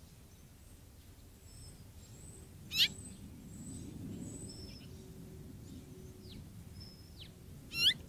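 Two loud, sharp bird calls, each a quick upward sweep, one about three seconds in and one near the end. They sound over faint birdsong of thin high whistles and short down-slurred notes.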